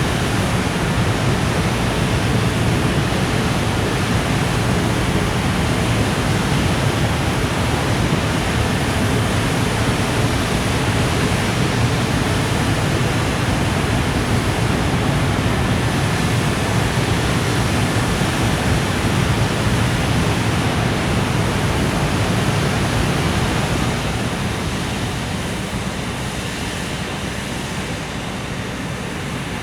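Container freight train rolling past, its wheels on the rails giving a steady rushing rumble that eases off somewhat near the end.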